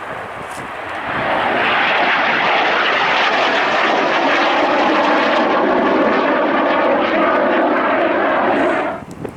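Airliner jet engines, loud and steady from about a second in, with a few faint steady tones in the noise; the sound cuts off abruptly near the end.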